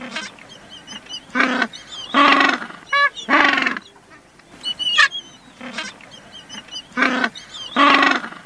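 Birds calling: harsh, honking calls alongside thin, high chirps. The same short stretch of calls plays twice.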